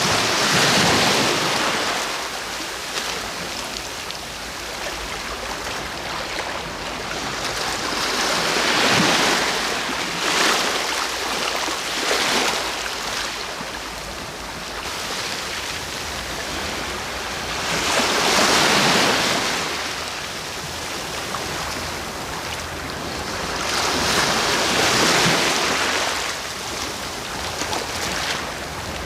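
Sea waves breaking on the shore, each wave swelling and washing out, about every six to eight seconds, over a steady wash of surf.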